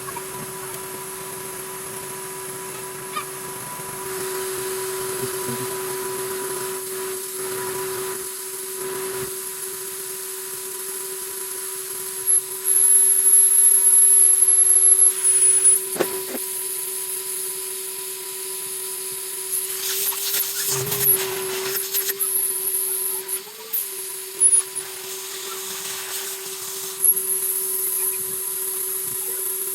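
Numatic cylinder vacuum cleaner running with a steady motor whine as it hoovers rubbish out of a car. It gets louder for a few seconds about twelve seconds in, and there is a burst of rattling and scraping around twenty seconds in as debris goes up the nozzle.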